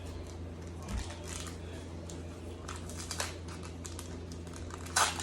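Light crinkling and rustling as Pokémon trading cards and their packaging are handled, with a steady low hum underneath and a louder rustle near the end.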